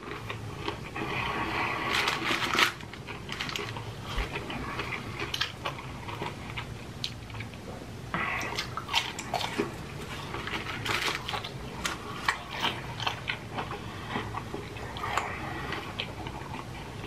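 A person chewing crispy breaded fried chicken tenders: crunching and irregular mouth clicks, busier around two seconds in and again around eight seconds in.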